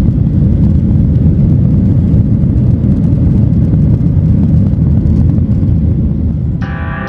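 Steady, loud rumble of an airliner cabin, the noise of the jet engines and airflow heard from inside. Near the end, gentle plucked-guitar music comes in.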